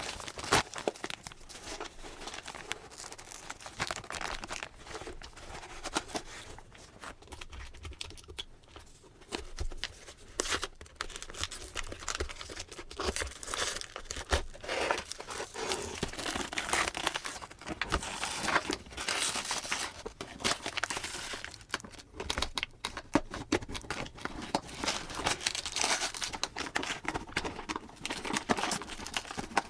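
Packaging around a memory foam lumbar support pillow being handled and opened: continuous irregular crinkling and rustling, with tearing.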